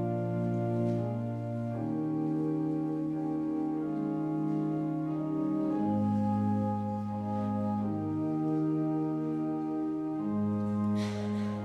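Church organ playing slow, held chords that change about every two seconds.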